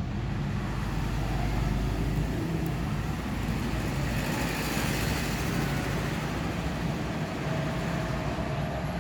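Steady rumbling background noise with no speech, swelling in the middle and then easing back.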